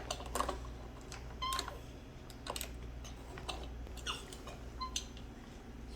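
Scattered light clicks and taps of a small toy truck being handled and knocked about, at irregular intervals, over a steady low hum.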